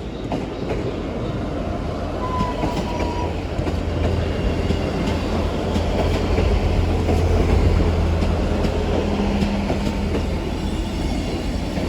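British Rail Class 158 diesel multiple unit arriving at a platform: its diesel engines drone steadily, growing louder toward the middle as it draws close, with wheels clicking over the rail joints. A brief high squeal comes from the wheels or brakes about two seconds in.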